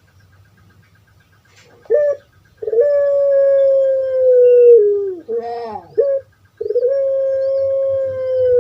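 Puter pelung (Streptopelia risoria) calling its long-drawn crowing coo. A short note comes about two seconds in, then a long held coo that slowly sinks in pitch and drops at its end. Short bent notes follow, then a second long coo begins.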